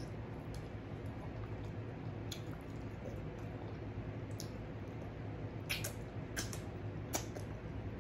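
Wet chewing and lip smacks of someone eating okra soup and fufu by hand, with several short sharp clicks, most of them in the second half, over a steady low hum.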